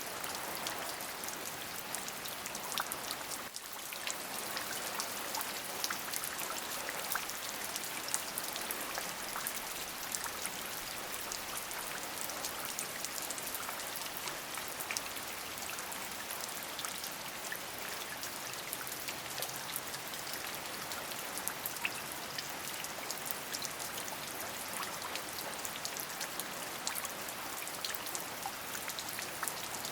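Steady rain: a continuous hiss dotted with many individual drops striking a surface, dipping briefly about three and a half seconds in.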